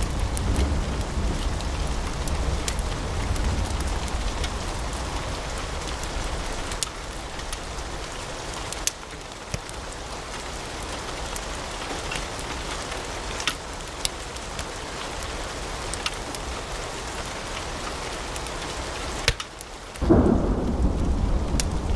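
Wood fire in a fireplace crackling, with scattered sharp pops and snaps over a steady hiss and low rumble. Near the end the sound drops away briefly, then comes back louder with a deeper rumble.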